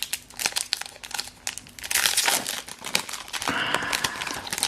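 Foil wrapper of a Pokémon TCG booster pack crinkling as it is handled and torn open, with crackles throughout and a louder ripping stretch about two seconds in.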